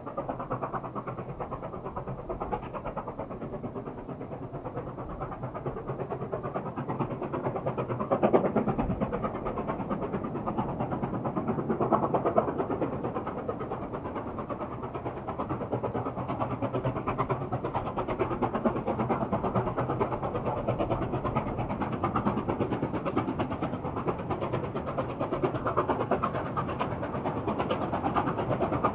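QJ steam locomotive working, its rapid exhaust beats and steam hiss growing gradually louder as it approaches, with a brief louder burst about eight seconds in.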